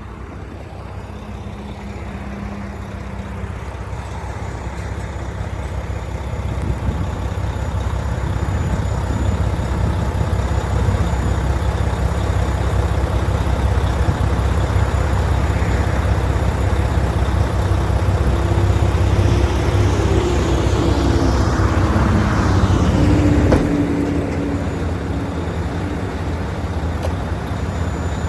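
Mack GU713 tri-axle dump truck's diesel engine running as the truck drives, growing louder over the first twenty seconds, with some short sliding whines a little before it eases off slightly at about two-thirds of the way through.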